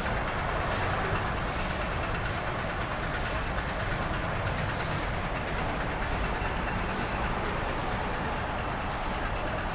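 Steady road and engine noise of a heavy truck on the move, an even rushing rumble with faint high clicks recurring through it.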